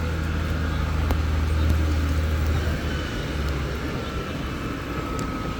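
Road traffic: a vehicle's low engine rumble that drops away about three seconds in, over a steady hiss of passing traffic.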